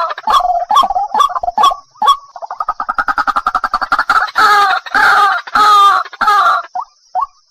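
White-breasted waterhen (ruak-ruak) calling: a fast run of short croaking pulses, then four loud, harsh, drawn-out calls, then short clipped notes about two a second near the end.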